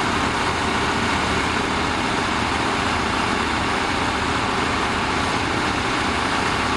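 Bulldozer's diesel engine running steadily at an even pitch and level.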